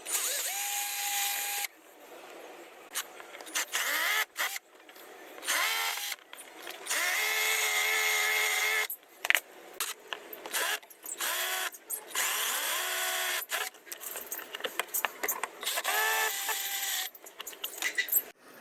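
Handheld electric power tool, a drill or rotary tool, run in a series of short bursts. Its whine rises in pitch as it spins up, and it holds steady for about two seconds near the middle.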